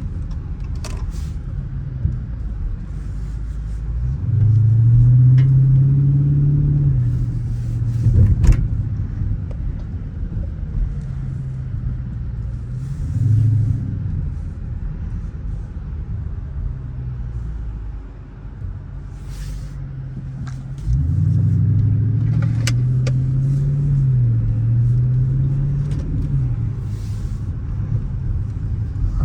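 Dodge Charger R/T's 5.7-litre HEMI V8 accelerating hard twice, about four seconds in and again about twenty-one seconds in, its note climbing and dropping back during each pull, with steadier, quieter running between.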